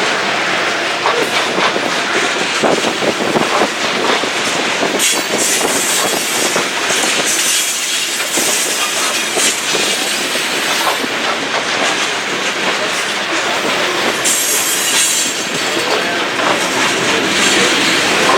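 BNSF freight train's cars rolling past, a steady rumble and clatter of wheels on the rails. High wheel squeals come in briefly about five seconds in, again around eight seconds, and near fifteen seconds.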